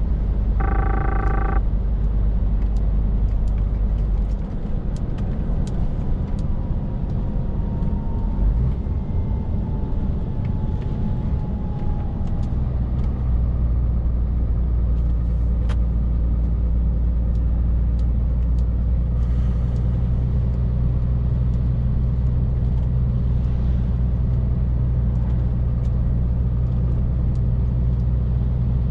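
Scania R450 lorry's diesel engine running under way with road noise, a steady low drone. The drone eases off about four seconds in and builds back up around twelve seconds. A short beep sounds about a second in.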